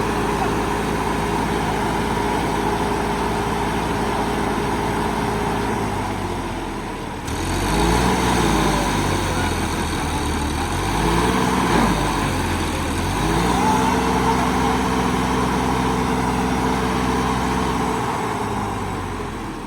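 John Deere 5405 tractor engine running under load, pulling a disc harrow. It holds a steady note at first, then about seven seconds in it gets louder and its pitch rises and falls twice before settling to a steady note again, easing off near the end.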